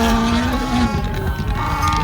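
Rally car engine at high revs, holding a steady note that breaks off a little under a second in.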